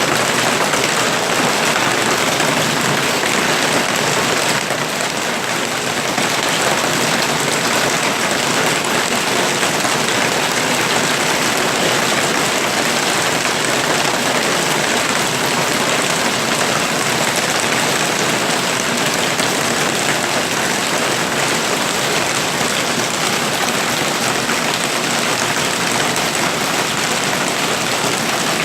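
Hailstorm: hail and heavy rain pelting down in a steady, dense downpour, with a brief slight lull about four and a half seconds in.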